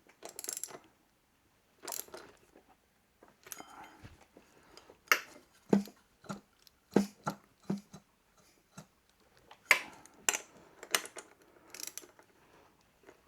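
Metal hand tools clicking and clinking on a motorcycle engine as a socket and ratchet are worked on the flywheel's central nut and washer. The sounds are separate sharp clicks and knocks, busiest in the middle and again near the end, not a steady run of ratchet clicks.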